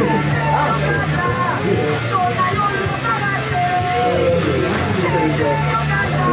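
Rock band playing loud music, with a voice singing over steady bass notes.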